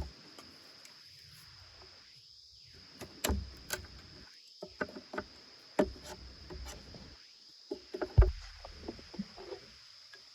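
Camp work by hand: irregular knocks and taps, like wood and gear being handled, with two heavier thuds, about three seconds in and again about eight seconds in. Under them runs a steady thin high insect buzz.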